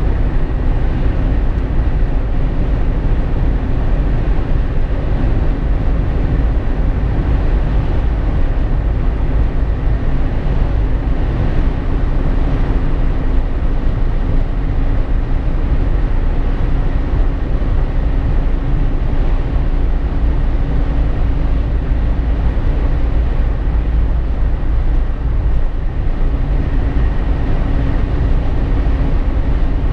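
Steady road noise inside the cabin of a Jeep Wrangler JK cruising: a loud low rumble of tyres and wind with a faint, even engine and drivetrain hum underneath.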